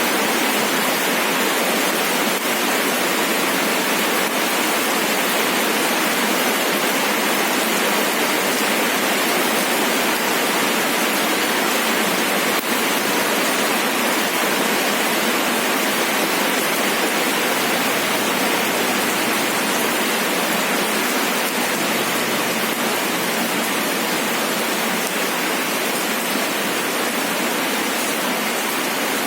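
Steady rain falling, an even, dense rush of noise with no single drops or thunder standing out.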